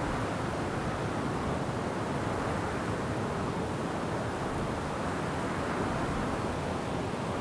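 Wind blowing steadily through forest trees, an even rushing noise.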